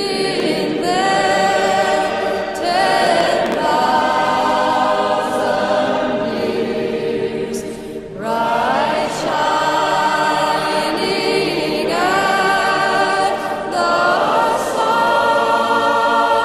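Choir singing a hymn in long held phrases, with short breaks between them.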